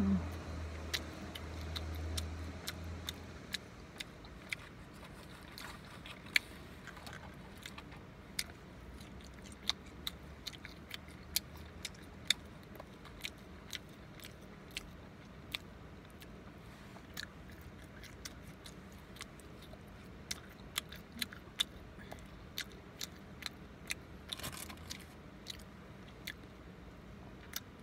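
Close-up chewing of fast food, with sharp wet mouth smacks and clicks coming irregularly, about one or two a second.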